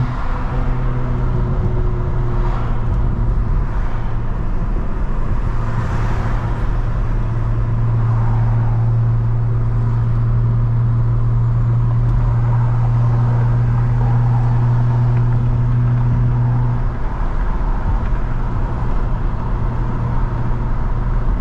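Straight-piped BMW E92 335i's N55 turbocharged straight-six running at a steady cruise, its exhaust making a deep drone that eases off about seventeen seconds in, over steady road noise.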